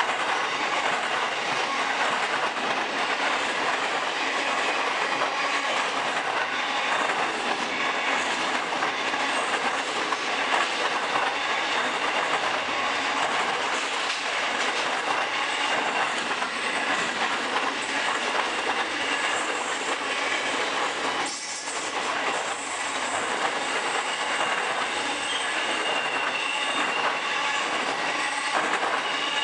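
Freight train wagons rolling past, a steady noise of steel wheels on rail with some high-pitched ringing tones. The noise dips briefly about two-thirds of the way through.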